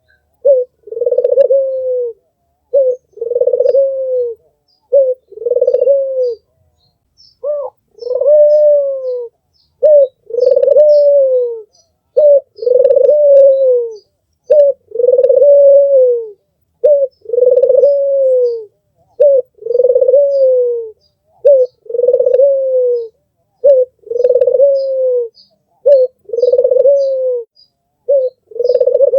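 Albino puter (domestic ringneck dove) cooing over and over: each coo is a short note followed by a longer drawn-out note that drops in pitch at the end, repeating about every two seconds. Faint high chirps of another small bird sound in the background.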